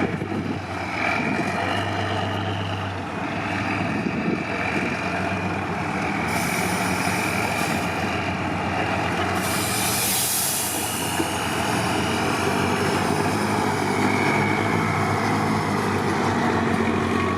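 Trial truck's engine running steadily, with a short burst of hiss about ten seconds in.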